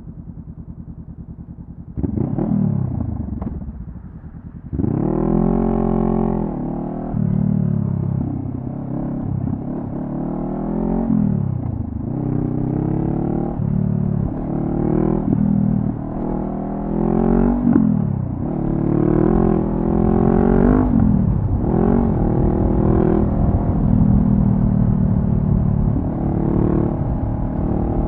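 2014 Honda CB500F's parallel-twin engine through a Delkevic carbon fibre slip-on exhaust: idling, then pulling away about two seconds in and accelerating through the gears, its pitch rising and dropping at each shift. It settles into a steady cruise near the end.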